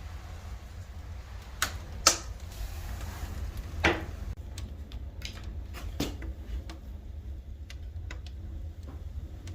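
Pine firewood burning in a stove-fireplace firebox, crackling with irregular sharp pops, the loudest about two and four seconds in, over a steady low rumble.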